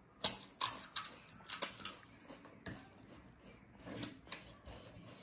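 Close-miked crunching of crisp panipuri shells being chewed, a quick run of sharp crackles in the first two seconds, then sparser crunches with another cluster about four seconds in.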